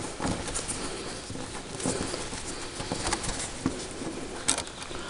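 Light clicks and scrapes of a screwdriver backing out the short screws of a European cupboard-door hinge, with a sharper click about four and a half seconds in.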